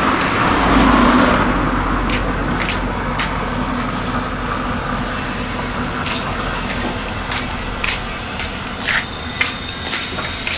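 Steady low mechanical hum, swelling briefly about a second in, with scattered sharp light clicks, more of them near the end.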